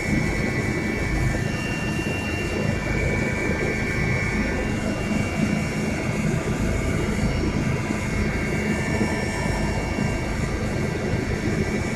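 Helicopter running steadily, a loud, even low rumble with a constant high whine.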